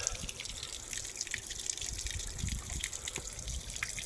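Water from a small pond waterfall splashing and trickling into the pond, with many irregular drips.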